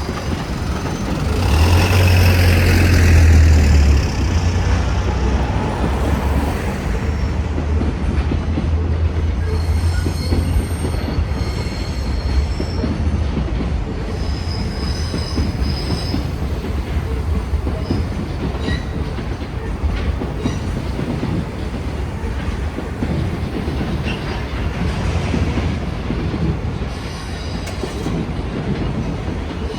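A train running past on the rails, close and loud, its wheels squealing in thin high tones now and then over a continuous low rumble.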